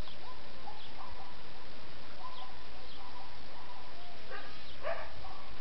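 Birds chirping and calling, short thin chirps scattered over a steady hiss, with a louder burst of calls a little past four seconds in.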